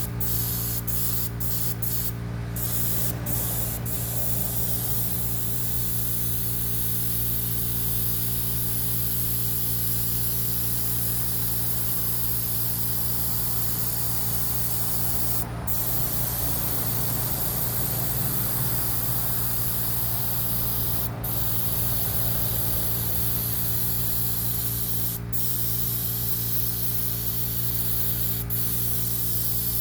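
Paint spray gun spraying steadily, a continuous hiss that breaks off for an instant several times as the trigger is let go, over a steady low machine hum.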